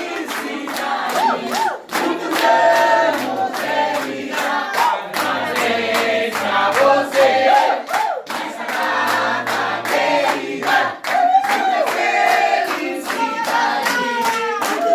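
A group of people singing together, clapping their hands in a steady rhythm of about two to three claps a second.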